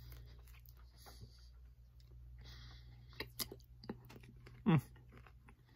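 Quiet chewing and wet mouth sounds of a person eating a piece of mango, with a few sharp clicks about three to four seconds in and a short voiced hum near the end.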